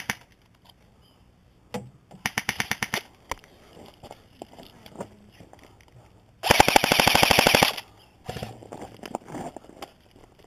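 Airsoft electric rifles firing full-auto bursts of rapid, evenly spaced shots. A short burst comes about two seconds in, then a much louder, close burst of about a second at around six and a half seconds.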